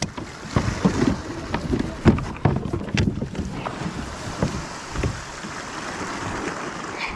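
Wind on the microphone and water lapping around a kayak, with irregular knocks and taps against the hull through the first few seconds.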